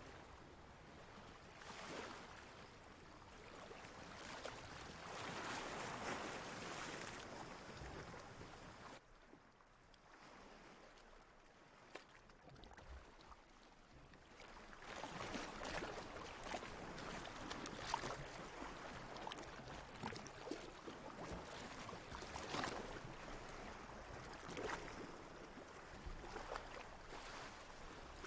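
Sea water washing in slow swells, a fizzy, splashy wash that rises and falls every few seconds, dropping quieter for several seconds partway through before building up again.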